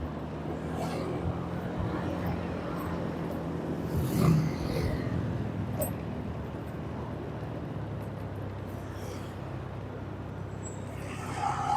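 A vehicle's engine running steadily on the road amid traffic, with a brief louder sound about four seconds in and a short higher-pitched sound near the end.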